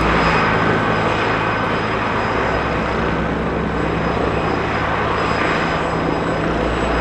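Aircraft turbine engines running nearby: a loud, steady rushing noise with a high, even whine held through it.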